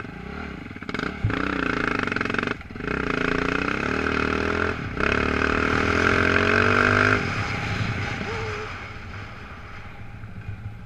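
Off-road motorcycles riding up and past, the engine rising in pitch as it accelerates, with two gear shifts about 2.5 and 5 seconds in. The engine is loudest just before 7 seconds, then fades away.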